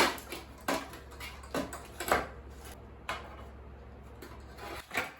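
Irregular knocks and clatter of hard metal and plastic parts being handled while an electronic appliance is taken apart, about six distinct strikes with the loudest at the very start.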